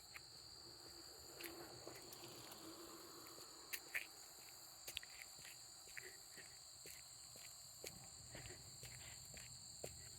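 Faint, steady, high-pitched chirring of crickets, with a person's footsteps crunching along the trail at a walking pace.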